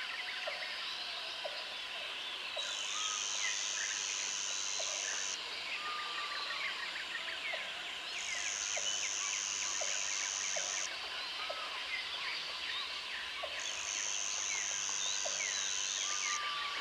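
Jungle ambience: an insect's high, steady buzz switching on and off in bouts of about two and a half seconds, over a dense chorus of bird chirps and calls, with a slurred whistled call twice and a short low note repeating about once a second.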